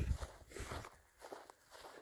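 Faint footsteps outdoors, a few soft irregular steps.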